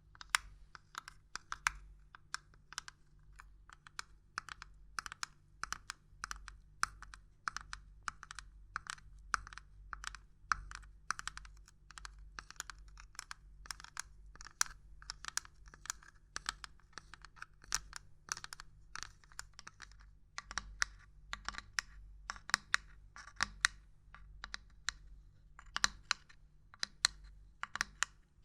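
Light, irregular tapping and knocking on a hard object, several quick clicks a second with a few louder knocks among them.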